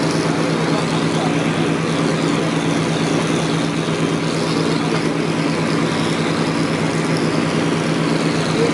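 An engine running at a steady speed, with a constant low pitched hum that holds unchanged throughout.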